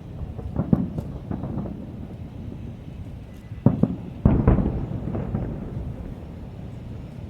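Aerial fireworks shells bursting: scattered booms in the first second, then two sharp, loud bangs about half a second apart near the middle, each followed by a rumbling echo that fades away.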